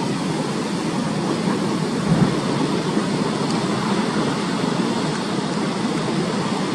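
Large storm waves surging and breaking under typhoon winds, a continuous rushing noise that swells briefly about two seconds in.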